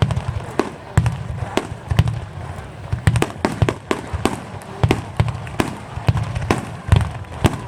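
Aerial fireworks bursting in rapid succession: many sharp cracks, several a second, over repeated deep booms.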